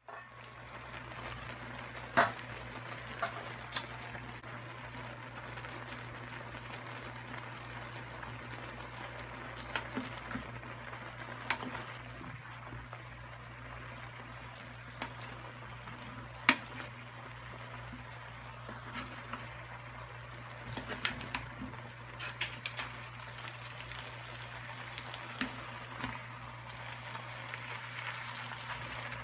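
A frying pan of vegetables and crab cooking in a little broth, bubbling and sizzling steadily, while a wooden spatula stirs it and clicks against the pan every few seconds. A steady low hum runs underneath.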